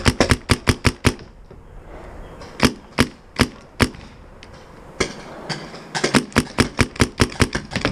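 Paintball markers firing: a rapid string of shots in the first second, four single shots about half a second apart near the middle, then another rapid string over the last three seconds.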